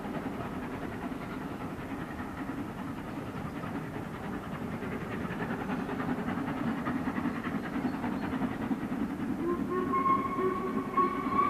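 Steam locomotive working a train, running steadily and growing louder, with its whistle sounding near the end in one held note.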